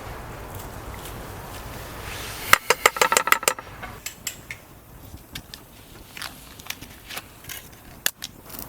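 Camp cooking gear being handled: a quick rattle of clinks about two and a half seconds in, then scattered light clicks and knocks.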